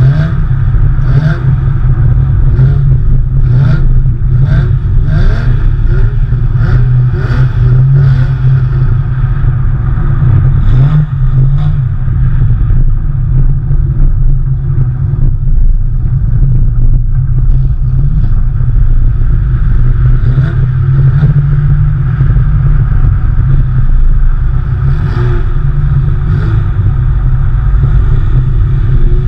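Porsche 911 engine running and revving over a heavy, steady low rumble. Sharp clatters come in quick succession through the first ten seconds and again near the end.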